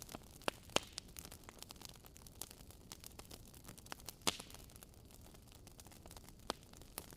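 Wood fire crackling in a fireplace: irregular sharp pops and snaps over a faint hiss, with the loudest pop about four seconds in.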